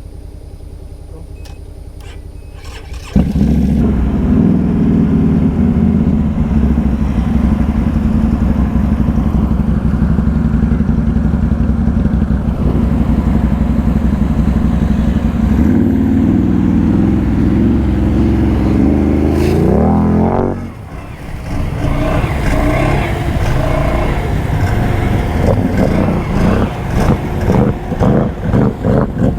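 ATV engine: a quieter steady idle for about three seconds, then a sudden jump to loud running under throttle. Around twenty seconds in the revs climb, drop away briefly, and near the end the throttle is worked in quick repeated surges.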